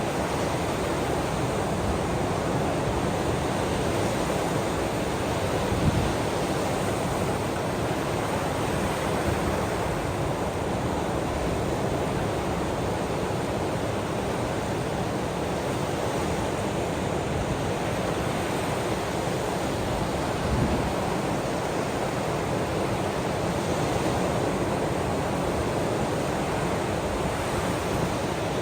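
Steady rushing noise of ocean waves and rain, swelling slightly about six seconds in and again about twenty seconds in.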